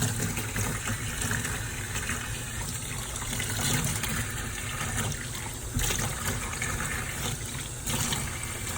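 Water running steadily over a kitten during its bath, with a couple of brief louder splashes about six and eight seconds in.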